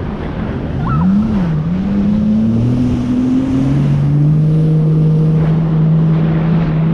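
Jet ski engine running. About a second in its pitch swings up and down, then climbs slowly before settling into a steady drone, with wind on the microphone and water noise around it.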